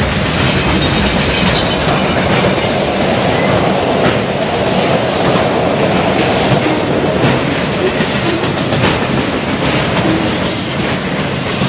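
Loaded autorack freight train rolling past close by: a steady rumble of the cars with irregular clicks of wheels over the rail joints. A brief high-pitched screech sounds about ten seconds in.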